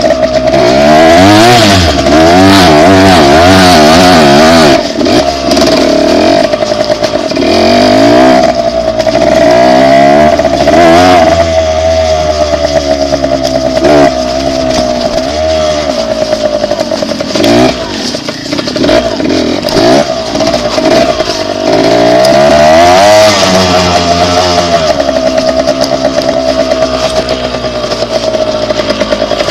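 Dirt bike engine running under way, its revs rising and falling again and again as the throttle is opened and closed, with a few brief drops where the throttle is shut.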